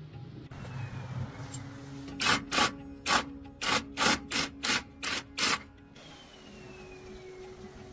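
A hand tool worked against a part in about nine quick back-and-forth strokes, like scrubbing or filing, in the middle of the stretch, over a faint steady hum.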